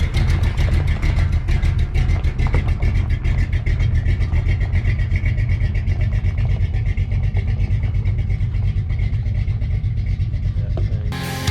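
Pickup truck engine running with a steady low rumble and a fast even pulse. Music cuts in near the end.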